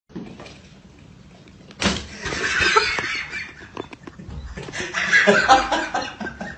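People laughing, in two loud bouts: one starting about two seconds in and another near the end.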